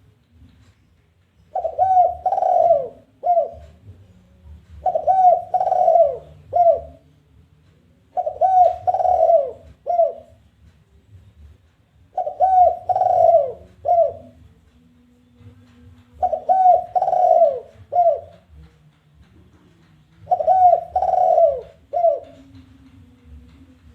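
Spotted dove (tekukur) cooing its challenging 'kuk' call: six phrases, one about every four seconds. Each phrase is a quick run of coos ending in a short, separate final note.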